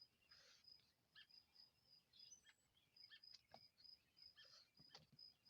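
Quiet yard ambience: faint birds chirping, a series of short high notes repeating steadily, with a few light ticks and rustles.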